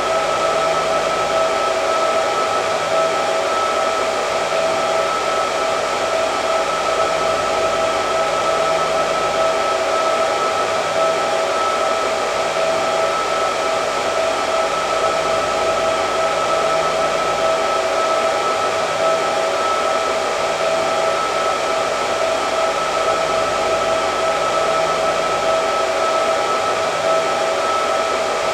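Hair dryer running steadily: a constant rush of air with a steady motor tone in it.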